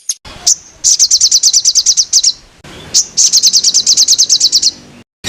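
A songbird delivering rapid 'tembakan' runs: a single high note, then two bursts of about ten sharp repeated notes a second, each lasting about a second and a half, with a short gap between them. A faint hiss of running water lies underneath.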